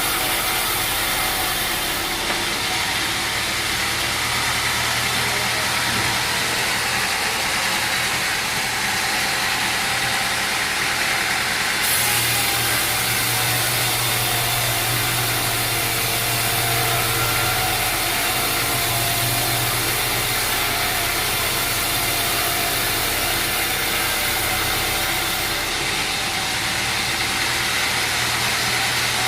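Sawmill machinery running steadily: a constant engine-like drone with a broad hiss, the low hum growing stronger about halfway through.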